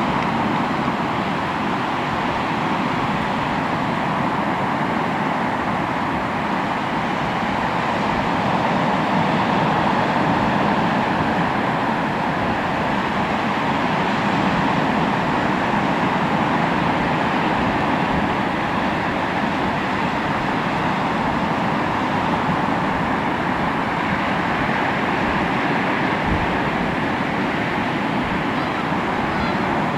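Sea waves washing onto the shore in a continuous rush of surf, swelling and easing gently now and then.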